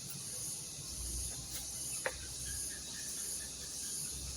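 Steady high chirring of crickets or similar insects, pulsing evenly, over a low hum that comes in about a second in. A single sharp click sounds about two seconds in.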